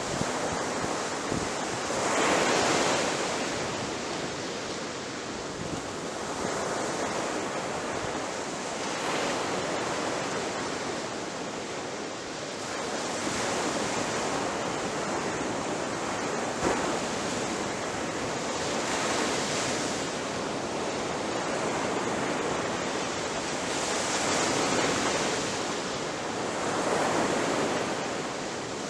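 Ocean surf: waves breaking on a shore one after another, a steady rush of water that swells every few seconds as each wave comes in.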